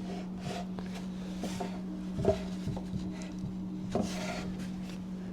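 A few light knocks and small clatters of wooden stakes being handled, the clearest about two seconds in and again about four seconds in, over a steady low hum.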